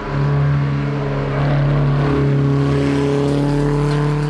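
Classic rally car's engine pulling hard up a hill-climb course, held high in the revs, its pitch rising slightly about halfway through.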